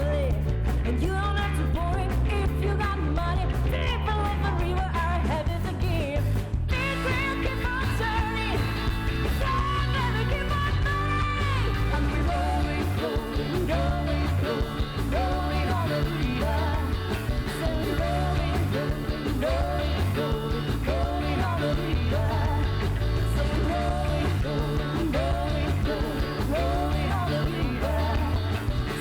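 Live rock band playing a song, with a steady beat and a melody line over it.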